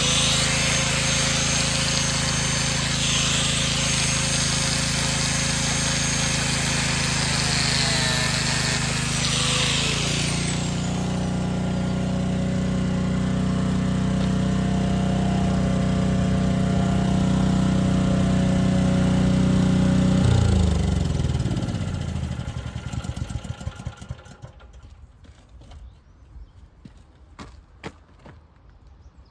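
A power cutting tool running with a high whine, cutting into metal, bogging briefly and then switched off about ten seconds in, spinning down. A steadier motor drone runs on beneath it and winds down to a stop about twenty seconds in, leaving a few light clicks.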